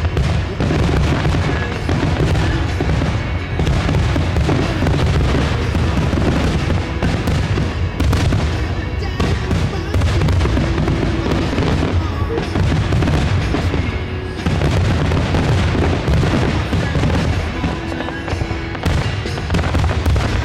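Aerial fireworks bursting in quick succession: deep booms overlapping with continuous crackling, with hardly a pause.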